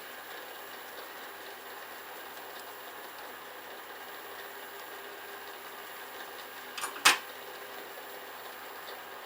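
Metal lathe running with a steady hum. About seven seconds in there are a couple of small clicks, then one sharp knock.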